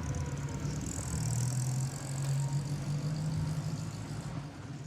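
Austin 1100's four-cylinder A-series engine running with tyre and road noise as the car drives along, a steady low hum.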